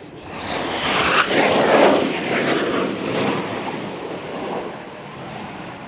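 A fixed-wing aircraft passes by: its engine noise swells to a peak about two seconds in, then fades away slowly.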